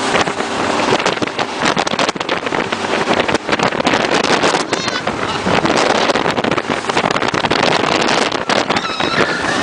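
Jet boat running at speed: a steady, loud rush of engine and water-jet noise, with wind buffeting the phone's microphone in irregular gusts.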